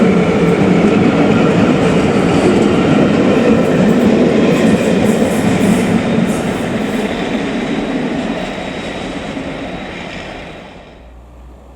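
Train passing, a loud steady rush of wheels on rails that fades over the second half and drops away sharply near the end.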